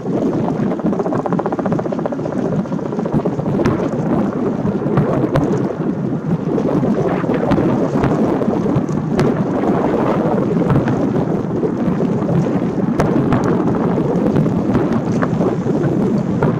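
Fireworks display: a continuous rumble of shell bursts booming over one another, with sharp cracks standing out now and then.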